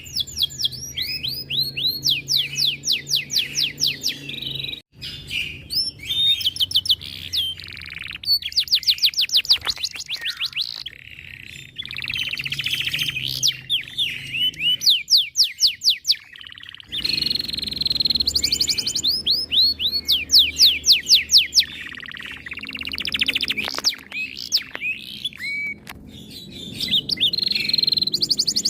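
Domestic canary singing long rolling trills: fast runs of repeated downward-sweeping whistled notes, in phrases broken by short pauses.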